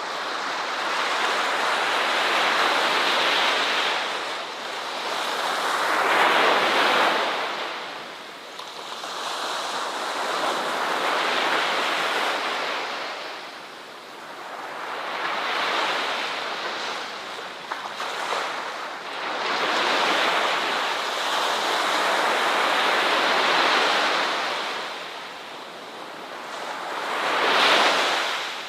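Ocean surf: waves breaking and washing in, the rush swelling and ebbing in slow cycles of about one wave every five or six seconds.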